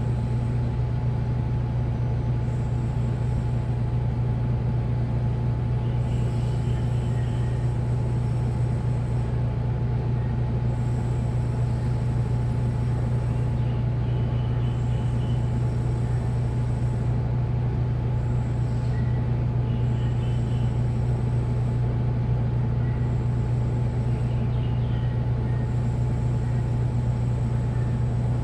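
Washing machine running steadily, with a constant low hum and no change in level.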